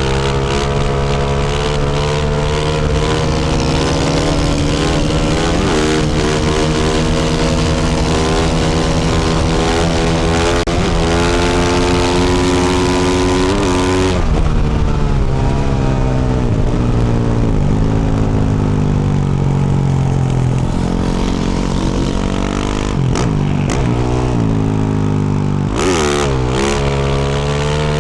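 2024 Yamaha YZ450F's 450 cc single-cylinder four-stroke engine, fitted with a Yoshimura RS-12 exhaust, running under load while riding, its pitch rising and falling as the throttle is worked through the gears. About halfway through it eases off to lower revs with several dips, then revs back up near the end.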